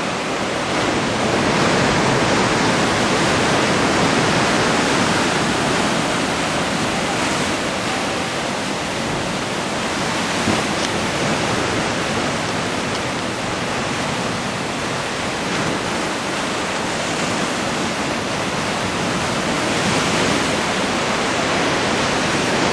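Ocean surf breaking on a beach: a steady wash of waves that swells a little at times.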